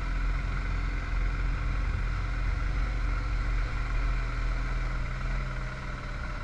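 Vehicle engine running steadily on the move: a low, even hum with road noise that does not change.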